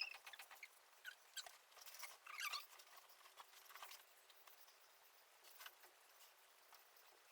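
Near silence: faint scattered clicks and a few short high squeaks, the clearest at the start and about two and a half seconds in.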